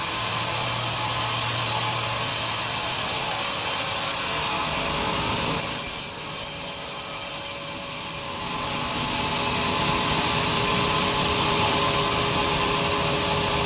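Large sawmill bandsaw cutting through a big log: a steady, hissing rasp of the blade in the wood, with a brief louder burst about six seconds in.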